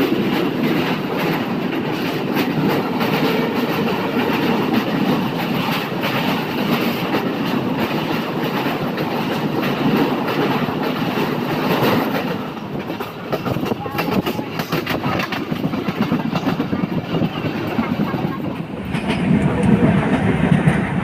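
Passenger train running, heard from inside a coach: a steady rumble of wheels on rail, with a fast run of clicking from the wheels through the middle stretch and louder rumbling near the end.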